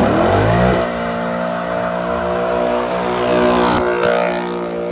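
A car's engine accelerating hard. The revs climb, drop sharply with an upshift just under a second in, then hold a steady, loud note, with a short crack near four seconds.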